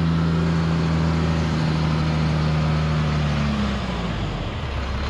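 Diesel engine of a GMC C8500 tandem dump truck running at steady, raised revs while the truck backs up. About three and a half seconds in the engine note drops, as the revs fall back toward idle, leaving a low rumble.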